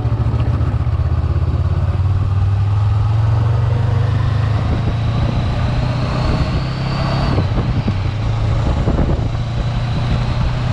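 Road vehicle driving at a steady pace: engine and road noise with a steady low drone.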